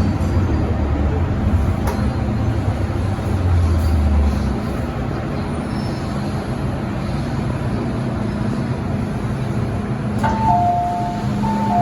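Interior running noise of an MTR Metro Cammell M-Train electric multiple unit: a steady rumble, with a low traction-motor hum that stops about four seconds in as the train drifts on. Near the end a two-note electronic chime, high then low, sounds twice.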